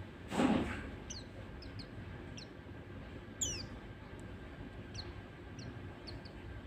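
White-eye (pleci) calling: scattered short, high chirps that sweep downward, with one louder sweeping call about three and a half seconds in. A brief harsh noisy burst comes just after the start.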